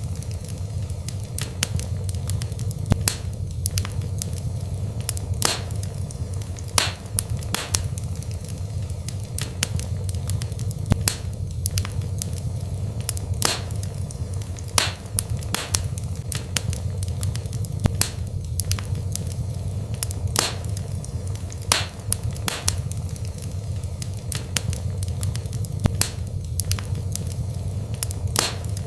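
Wood fire burning in a fireplace: a steady low rumble of the flames with sharp crackles and pops at irregular intervals, every second or so.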